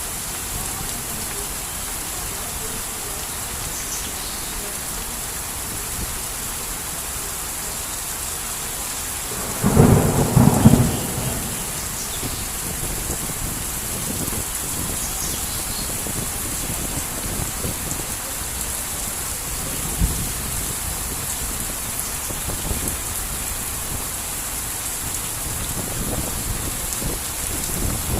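Heavy rain falling steadily, with one loud clap of thunder about ten seconds in that rumbles for over a second before fading back into the rain.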